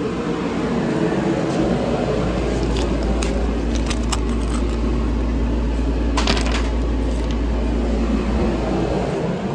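Small metal parts clinking and jangling against a magnetic parts tray as it is emptied, over a steady low rumble.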